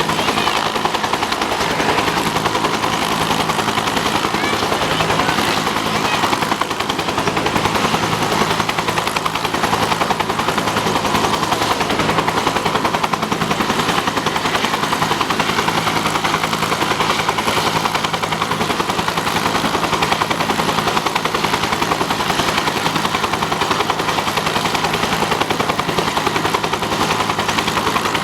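Helicopter flying, its rotor blades giving a fast, steady chop over the drone of the turbine engine.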